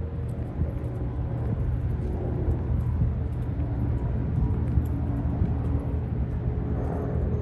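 A steady, low engine rumble.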